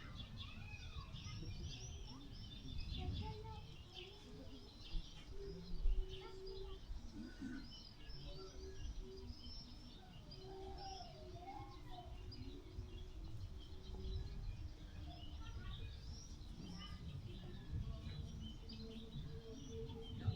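Many small birds chirping and twittering continuously, over a steady low rumble.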